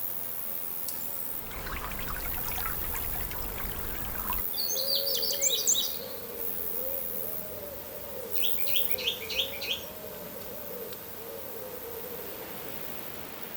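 A songbird singing two short phrases of rapid high notes, each lasting about a second and a half and about three seconds apart, over a steady outdoor background.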